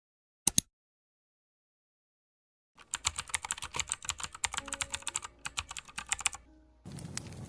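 Two sharp clicks, then a quick run of computer keyboard typing for about three and a half seconds. Near the end a campfire starts up: a steady hiss with scattered crackles.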